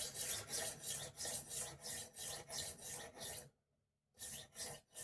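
Rolling knife sharpener's abrasive disc rasped back and forth along a kitchen knife's edge, set at the shallower angle of its holder. Quick, even strokes, about four a second, stop about three and a half seconds in, then two more strokes come near the end.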